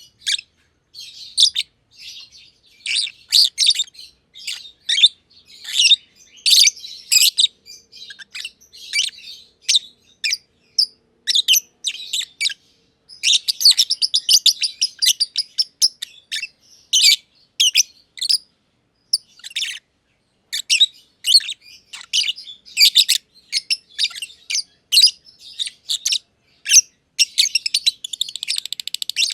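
Lovebirds (personata, black-masked) chirping: rapid high-pitched chirps in irregular runs with short gaps, a dense chattering run about halfway through.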